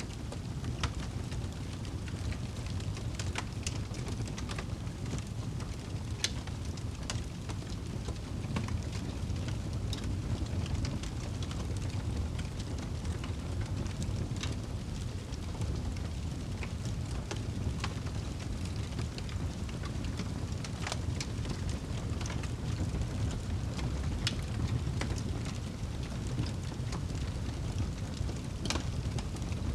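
Wood fire crackling in a fireplace: a steady low rumble of flames with scattered sharp pops and snaps every second or two.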